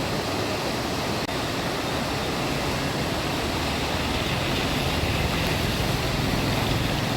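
Steady rushing of the swollen Chenab river in flood, its fast current raised by heavy rain.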